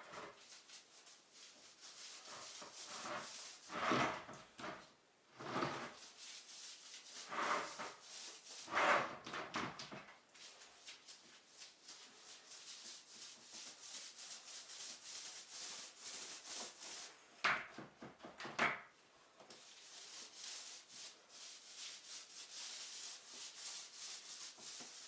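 Wallpaper being rubbed and smoothed onto a wall: a continuous scratchy rubbing, broken by about six short, louder sounds, four of them in the first ten seconds and two more a little over halfway through.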